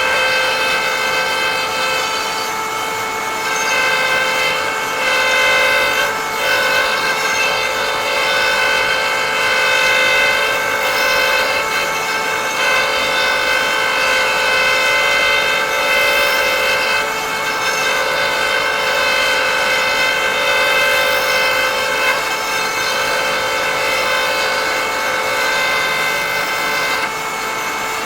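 High-speed cutter motor on a woodturning threading jig, whining steadily as it cuts threads into a wooden box, with light irregular cutting noise. Near the end its pitch falls as the motor is switched off and spins down.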